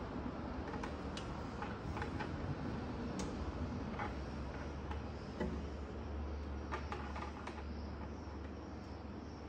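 Scattered light clicks and taps of small tools and metal parts being handled, over a steady low hum.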